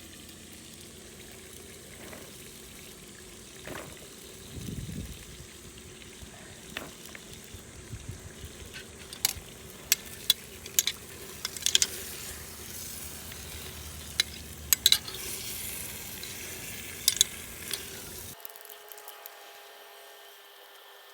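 Food sizzling in a pot while being stirred, with a run of sharp clinks and knocks of a utensil against the pot through the middle.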